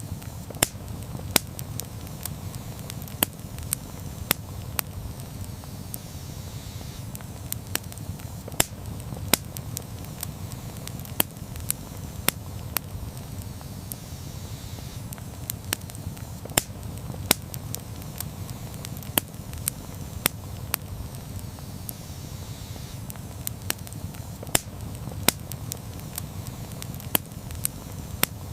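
Wood campfire burning: a steady low rumble of flames with irregular sharp crackles and pops from the burning wood, sometimes several in quick succession.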